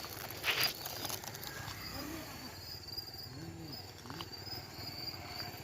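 Insects chirring steadily in a high, pulsing drone, with a brief burst of noise about half a second in and faint distant voices.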